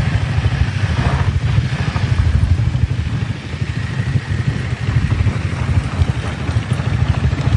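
Motorcycle engine running steadily with a low, rough rumble.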